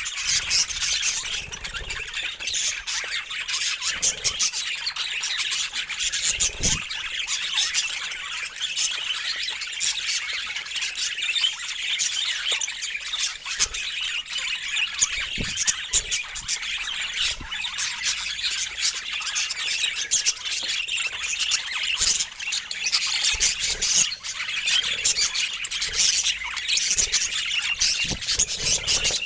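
Several budgerigars chattering and squawking continuously: dense, overlapping short chirps and squeaky calls.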